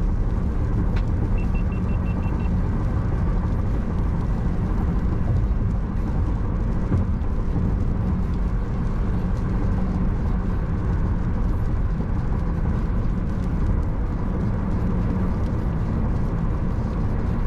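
Steady road and engine noise inside a moving car. About a second in comes a quick run of short, high beeps.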